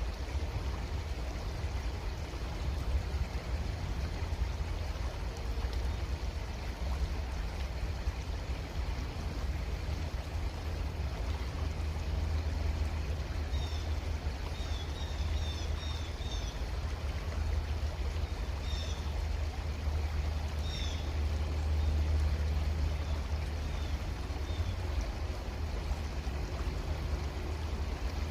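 Creek water flowing steadily over a low, constant rumble. From about halfway through, a small bird calls a series of short, high chirps for several seconds.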